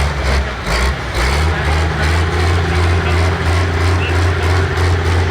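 Turbocharged diesel engine of a pull tractor running steadily at fairly low revs, with a loud, even low note.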